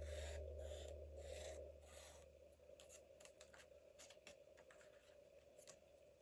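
Faint strokes rubbing across paper, about five in the first two seconds, followed by a run of light ticks and clicks: work on a journal page with pencil or eraser.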